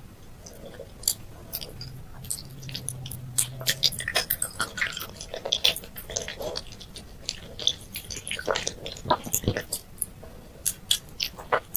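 Close-miked mouth sounds of candy being bitten and chewed: irregular sharp wet clicks and smacks, sparse at first and coming thick and fast after about four seconds.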